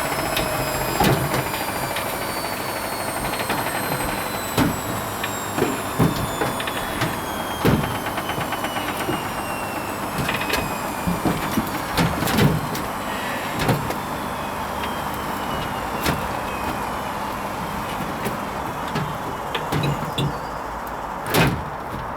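Hoover Vision HVP16 washing machine late in its Silks 30 cycle: a high whine falls slowly in pitch as the drum motor slows, over a steady machine noise with scattered knocks and clicks from the drum.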